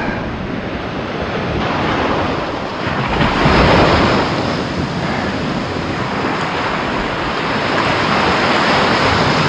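Surf washing onto a beach, a steady rushing of waves with wind buffeting the microphone; the wash swells to its loudest about three to four seconds in.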